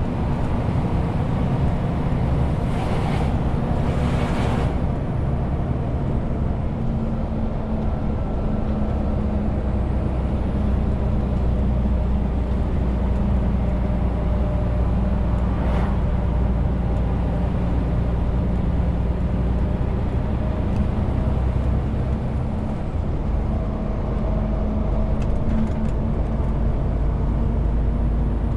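Renault T520 truck's diesel engine running steadily under load while hauling about 40 tonnes, with road noise. A short hiss rises about three seconds in, and a brief sharp click comes about halfway through.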